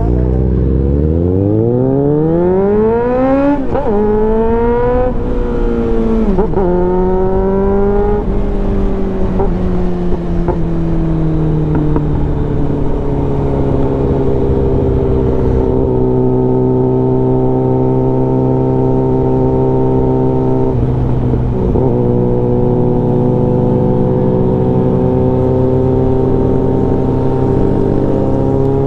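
Suzuki Bandit 650N's inline-four engine through an aftermarket full exhaust, accelerating hard with the revs climbing through three quick upshifts over the first several seconds. It then eases off, the revs falling slowly before settling into a steady cruise.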